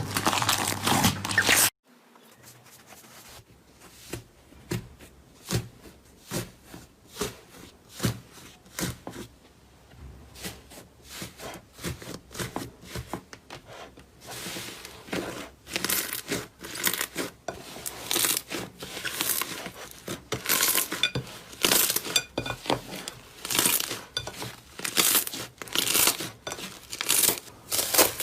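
Slime being squeezed and pressed by hand, making short crackling and crunching pops. A dense loud crackle cuts off abruptly near the start; the pops are sparse at first, then come faster and louder from about halfway.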